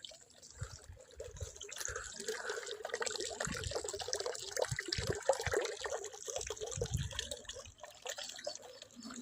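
Irrigation water trickling and gurgling along a field channel, a steady uneven flow with small splashes.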